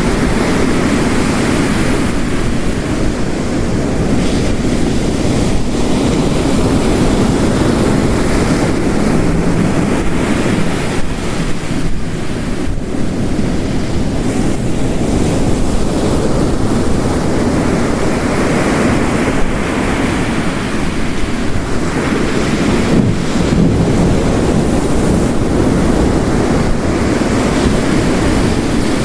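Ocean waves crashing and washing on a coast under a steady wash of heavy rain, in a dense roar that swells and eases every several seconds.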